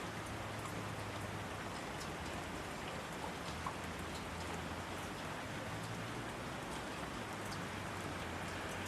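Steady rainfall: a continuous even hiss with scattered sharper drops ticking through it.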